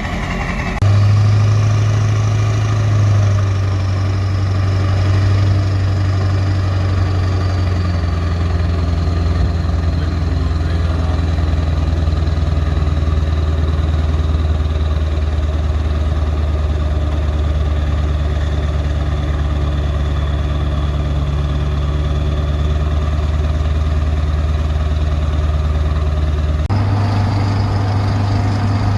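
Turbodiesel pickup engine idling with a steady low note and a thin, high turbo whistle that slowly falls in pitch. The engine note changes abruptly near the end.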